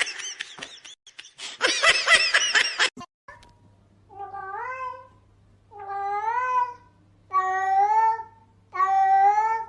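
A cat meowing four times in a row, long drawn-out meows of about a second each, evenly spaced, each rising in pitch at the start and then held. They follow about three seconds of busier, noisier sound from the previous clip.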